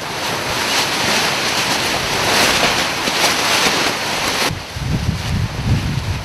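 Strong wind noise: a steady, loud hiss, then after an abrupt change about four and a half seconds in, low gusts of wind buffeting the microphone.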